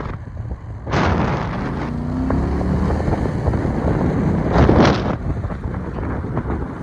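A vehicle engine running, with wind buffeting the microphone in two louder gusts, about a second in and just before five seconds.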